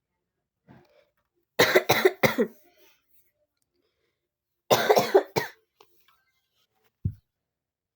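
A person coughing: a quick run of about three coughs two seconds in, and another fit about five seconds in. A short low thump follows near the end.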